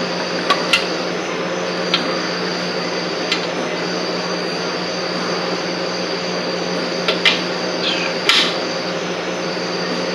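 Hand tools clinking and knocking on metal now and then, a few sharp strikes with a close pair early and a cluster near the end, over a steady background hum.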